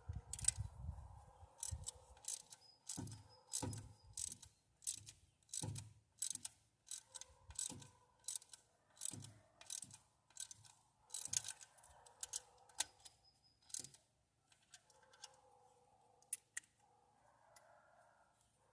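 Hand ratchet clicking in a series of short strokes, about two a second, with some dull knocks, as rocker arm nuts are run down on a Ford Fairlane engine; the strokes thin out and stop about fourteen seconds in.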